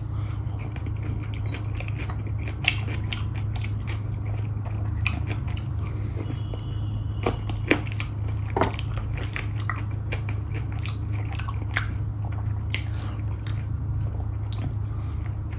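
A person chewing food close to the microphone: wet mouth sounds and scattered small clicks and smacks, over a steady low hum.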